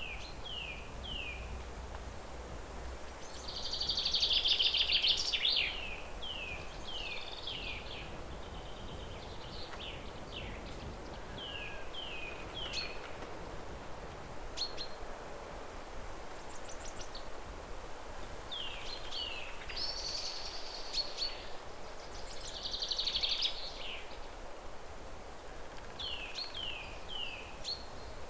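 Songbirds singing: repeated short, falling whistled notes in quick runs of three or four, with a louder trilled phrase about four seconds in and again several times later, over a steady outdoor background hiss.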